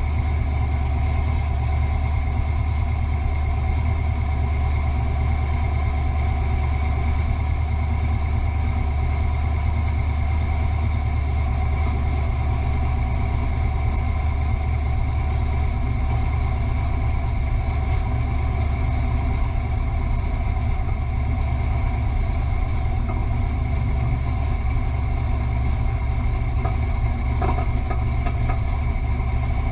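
Fox body Ford Mustang's engine idling steadily, a low, even rumble with no revving.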